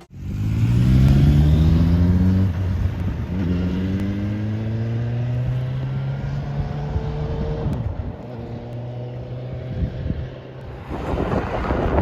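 Suzuki GSX-S1000 motorcycle's inline-four engine accelerating through the gears. Its pitch rises, drops at a gear change about two and a half seconds in, and rises again before easing off to a steadier, lower run near the eight-second mark. Wind noise on the microphone comes in near the end.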